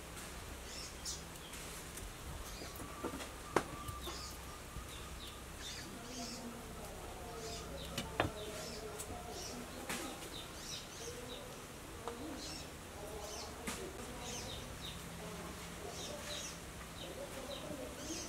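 Small birds chirping on and off, short high calls scattered throughout, with a few sharp light taps and clicks now and then.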